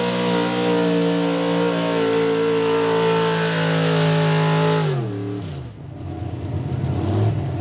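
Outlaw 4x4 pulling truck's big-inch engine screaming at high revs under load while dragging a weight-transfer sled, then the revs fall sharply about five seconds in as it comes off the throttle, settling into a lower, rough rumble.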